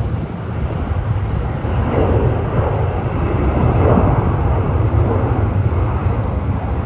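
Airbus A330 airliner's jet engines at takeoff power: a steady rush of jet noise with a deep rumble, swelling to its loudest around the middle.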